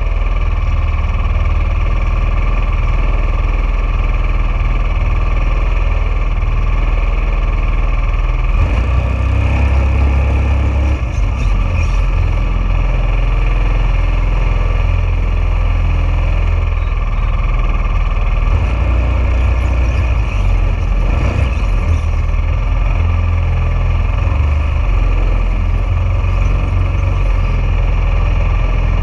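Junior dragster's single-cylinder engine running steadily, with a heavy low rumble.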